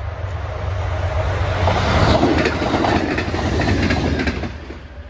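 Passenger train passing close at speed, its wheels clattering over the rail joints. It builds to its loudest about two seconds in and drops away sharply after about four and a half seconds as the last car goes by.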